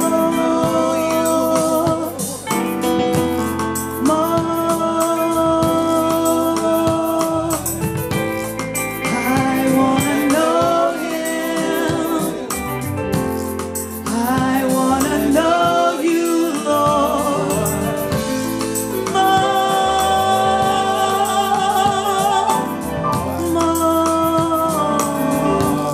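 Gospel worship music: voices singing long held lines over keyboard accompaniment.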